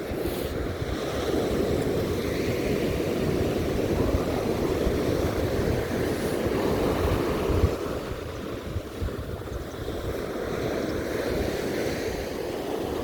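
Sea waves breaking and washing onto the beach in a continuous surf wash, with wind buffeting the microphone and one sharper gust just past the middle.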